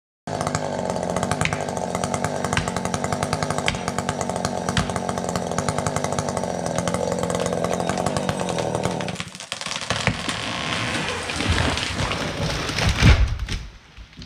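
Chainsaw running under cutting load. About nine seconds in it stops, followed by a rising rush and cracking and a heavy thud near the end as the cut fir falls and hits the ground.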